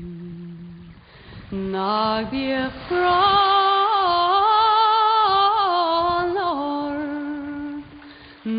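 Slow, wordless singing in long held notes, rising about three seconds in to a louder, higher passage with a gentle waver, then stepping down and fading near the end.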